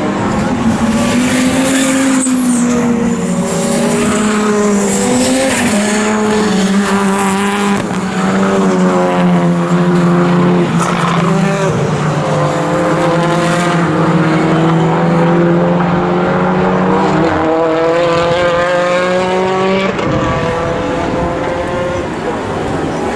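Racing car engines at race speed, several engine notes overlapping, their pitch rising and falling as the cars accelerate, shift gears and brake.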